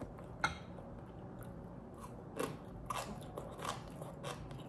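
A person chewing food close to the microphone, with a few soft crunches spread through the later part, and one light sharp click about half a second in.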